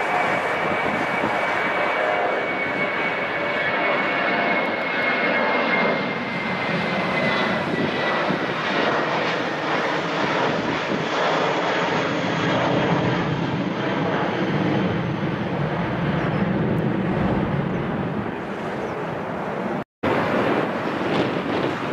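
Airplane engines running loud and steady, with a thin high whine that slowly falls in pitch over the first several seconds. The sound drops out abruptly for a moment near the end, then carries on.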